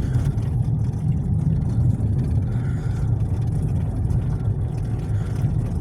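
Car cabin road noise while driving: a steady low rumble of tyres and engine heard from inside the moving car.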